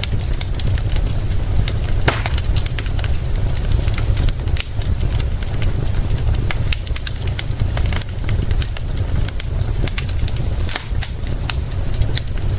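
Wood fire crackling, with frequent sharp irregular pops and snaps over a steady wash of rain and a constant low rumble.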